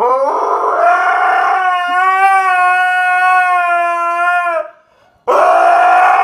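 A young husky howling: one long howl that rises at the start and then holds steady for about four and a half seconds. After a short break, a second howl begins.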